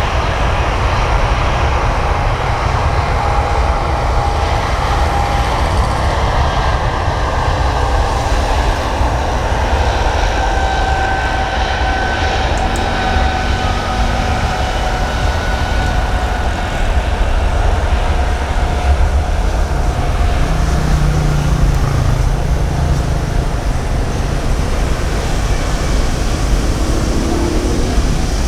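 Jet airliner engines running loud: a steady rumble with a thin whine that slowly falls in pitch.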